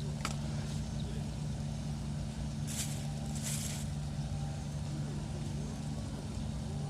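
Steady low engine drone, with two short hisses near the middle.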